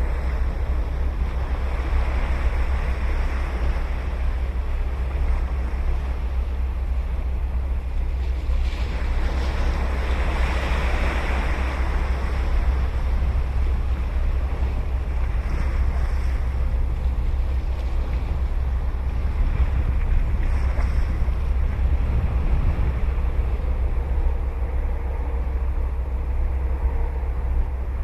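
Ocean waves breaking and washing up the beach, the surf swelling loudest about two seconds in and again around ten seconds, with smaller surges later. A steady low rumble runs underneath.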